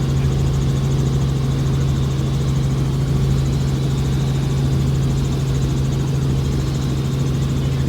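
Helicopter in flight, a steady low drone with a strong constant hum that does not change in pitch or loudness.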